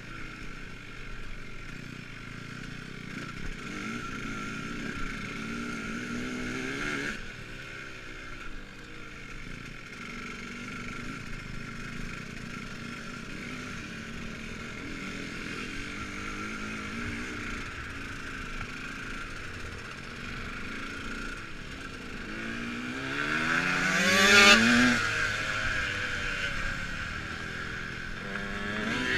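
Dirt bike riding, its motor rising and falling in pitch as the throttle is worked. About 24 s in, a bike passes close: it gets much louder, climbs in pitch and then drops away.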